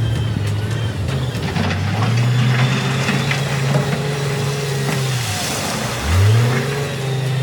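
Heavy earthmoving machine's diesel engine running under load. Its note drops away a little after five seconds, then revs sharply back up about a second later. Scattered knocks and clanks sound over it.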